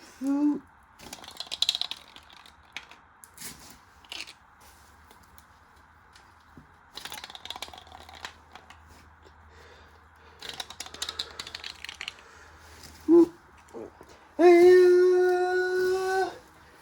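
Scattered light clicking and crackling over a faint low hum, then a short vocal sound and a person humming one long held note near the end.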